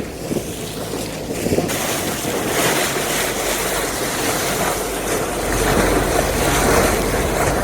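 Wind buffeting the microphone over the rush of sea water around a boat, a steady noise that grows fuller after about two seconds, with a stronger low gust over the last two seconds.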